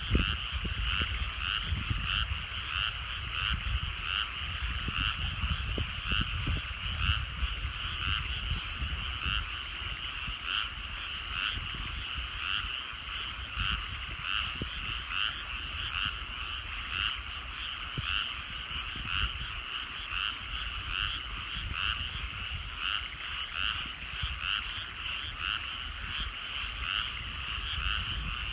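A dense chorus of frogs calling from rice paddies, overlapping calls pulsing about twice a second, with a low rumble underneath.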